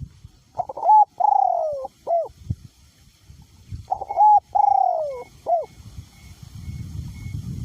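Male spotted dove cooing: two phrases of several notes, each with a long falling note in the middle, about three seconds apart. Wind rumbles on the microphone, building near the end.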